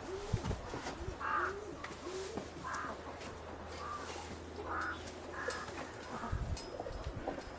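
Nikolaev pigeons cooing in a run of short arching coos, with several short, harsher calls mixed in through the rest of the stretch.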